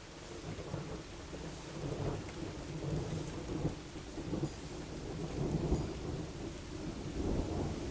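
Thunder rumbling in rolling surges over steady rain, swelling up in the first second.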